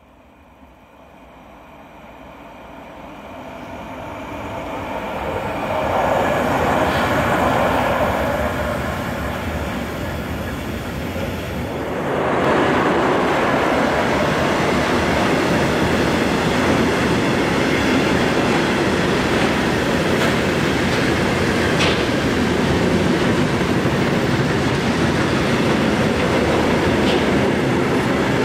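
Freight train hauled by a class 155 electric locomotive approaching and passing close by, growing louder over the first six seconds. From about halfway on there is a steady loud rumble of the wagons rolling past, with occasional wheel clicks.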